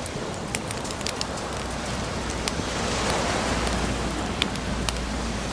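Wood bonfire crackling with scattered sharp pops over the rushing wash of ocean waves, a wave surging louder about halfway through.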